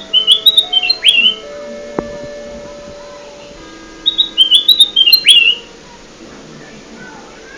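Kutilang emas bulbul song: two loud phrases of quick, high whistled notes stepping up and down, each ending in a sharp downward slur, about three seconds apart.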